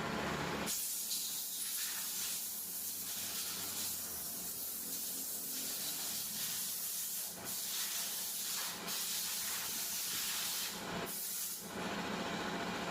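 A steady, high-pitched hiss of a pressurised spray that starts suddenly under a second in. It breaks off briefly a few times and stops near the end, leaving a low steady hum.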